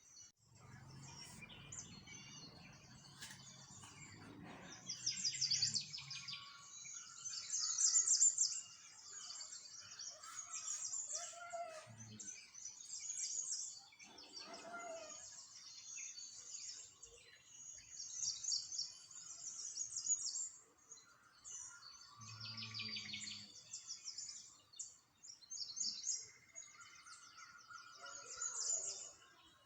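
Small songbirds chirping and twittering, with quick high trills from several birds overlapping and coming in bursts. A low hum sits under the first few seconds.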